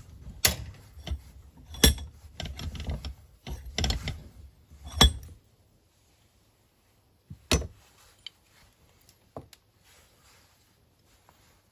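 Hammer tapping a new blade clutch bearing into its seat on a Honda HRX mower: a run of sharp metal taps and clatter, then one more tap after a short pause.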